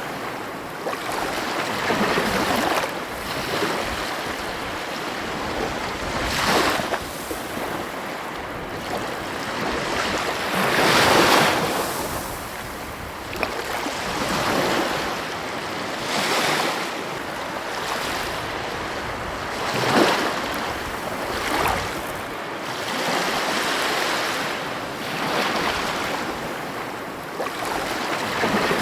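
Ocean surf breaking on a beach: a steady rush of water that swells with each wave every few seconds, loudest about eleven seconds in and again about twenty seconds in.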